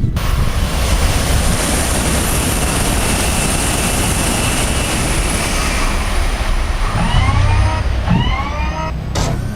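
Loud, steady rushing noise of a train passing, starting abruptly. It is followed near the end by two short rising, siren-like whoops about a second apart.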